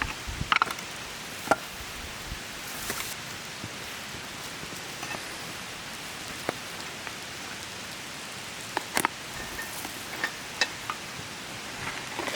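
Light rain: a steady hiss with scattered, irregular drops tapping sharply.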